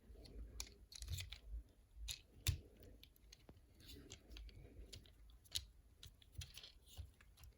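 Hard plastic parts of a Transformers action figure being handled and moved, with scattered sharp clicks of joints and pieces snapping or ratcheting, the loudest about two and a half seconds in, between light scrapes.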